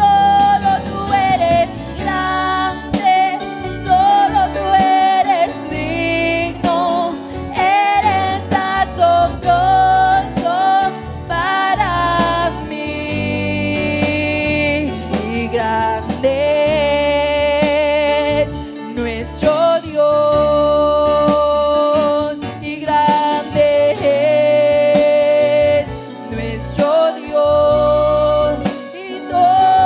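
Congregational worship music: a voice singing a slow melody with held, wavering notes over keyboard and band accompaniment.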